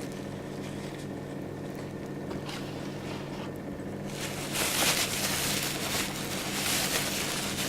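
Packing material rustling and crinkling as the old glow lamps are handled and unpacked, in several bursts starting about halfway through, over a steady low hum.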